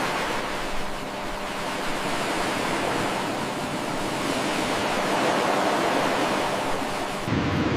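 A steady rushing noise, with no animal calls. About seven seconds in it cuts abruptly to a different rushing noise, heavier in the lower range.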